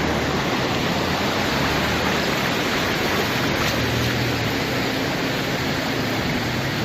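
Steady rushing of water in a tropical storm, with a faint low hum in the middle.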